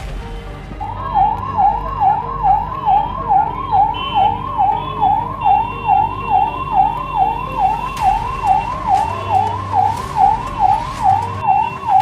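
Emergency vehicle siren in a fast up-and-down yelp, about two sweeps a second, starting about a second in.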